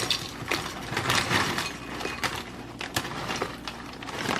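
Fritos corn chips being poured from the bag into a bowl: a run of crackles and clatters, densest about a second in, then thinning out.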